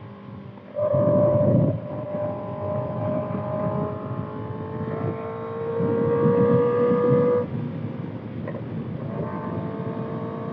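Kawasaki ZX-6R inline-four running through a Voodoo Racing slip-on exhaust while riding, with wind noise on the microphone. It surges loudly about a second in, then holds a slowly rising pitch that drops off suddenly about seven seconds in, and runs on more quietly.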